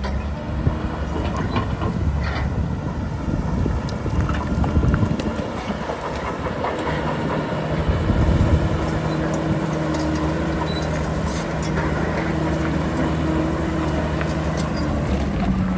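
Heavy diesel earthmoving machinery working: a dense engine rumble with scattered clanks and rattles, and a steady engine note that settles in about halfway through.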